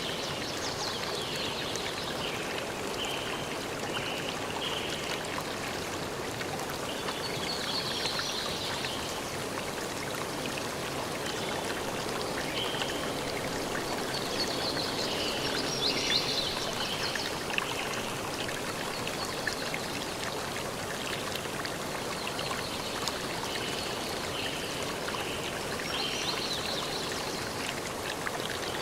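A forest stream flowing steadily, an even rush of water, with high chirping calls of birds coming and going over it.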